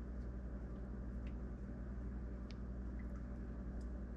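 Quiet kitchen room tone: a steady low hum with a few faint, light clicks.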